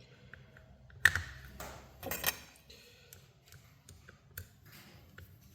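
Handling the small plastic and metal parts of a replacement electrical plug: a sharp click about a second in, a couple of brief scraping rustles, and light ticks and clicks throughout.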